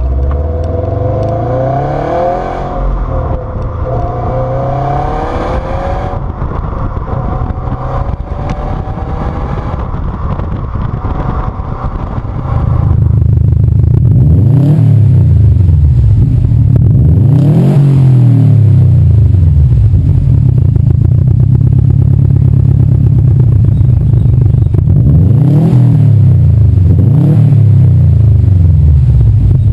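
Subaru WRX STI's turbocharged flat-four engine revving through its exhaust, its pitch rising and falling. About halfway through, the sound cuts to a louder recording in which the engine is revved up and back down four times.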